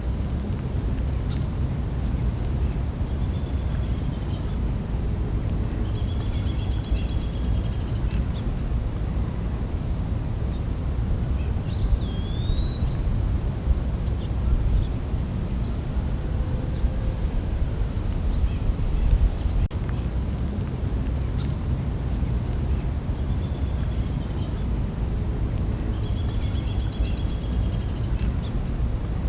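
Night insect chorus: a steady high-pitched drone with a cricket chirping in even pulses, and longer buzzing trills that come twice, a few seconds in and again near the end. A single short whistled note comes near the middle, over a low steady rumble.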